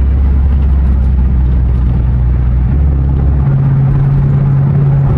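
Dodge Charger R/T's 5.7-litre Hemi V8, with its resonator and mid mufflers cut out, droning steadily while driving, heard from inside the cabin. About three and a half seconds in, the low drone steps up to a higher steady note as the revs change.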